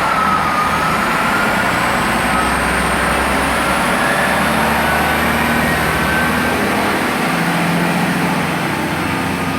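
Chiltern Railways diesel multiple unit at the station platform, its engines running steadily, with a faint high whine slowly rising in pitch.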